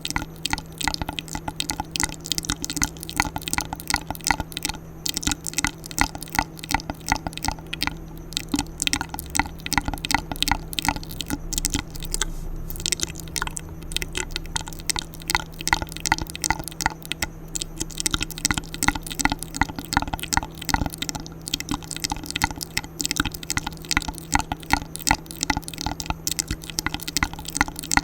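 Wet ASMR mouth sounds: rapid, irregular clicks and smacks of lips and tongue, several a second, continuing without pause.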